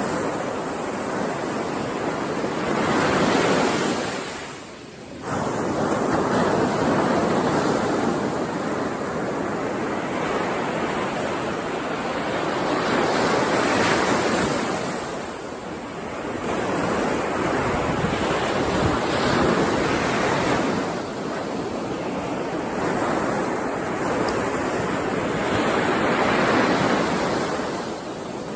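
Ocean surf: waves breaking and washing in, the rush of water swelling and fading every few seconds, with a short lull about five seconds in.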